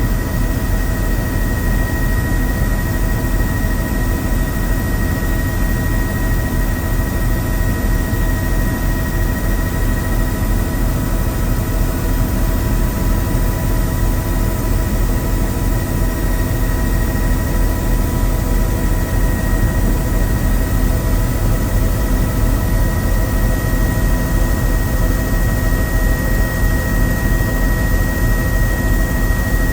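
Helicopter engine and rotor noise heard on board in flight: a loud, steady drone with a constant high whine over it.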